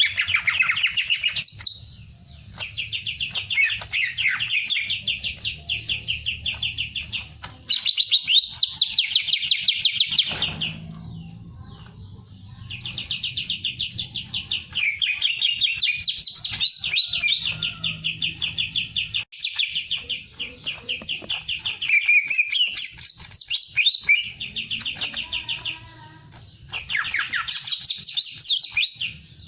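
A songbird singing in long, fast trills of rapidly repeated notes, in several phrases of a few seconds each with short breaks between them.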